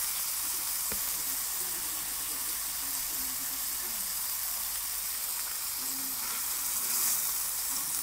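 Two beefburgers sizzling steadily in a frying pan without oil, the grease cooking out of them, swelling slightly near the end.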